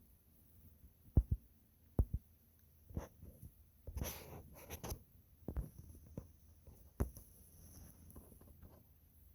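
A handful of short, dull thumps and knocks, some in close pairs, with a brief rustle about four seconds in.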